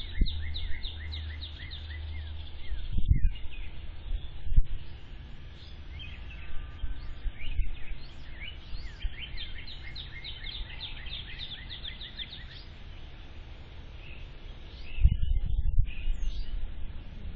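Birds chirping in long, quick series of short down-slurred notes, heard through a security camera's microphone. Low rumbles buffet the microphone about three seconds in and again near the end.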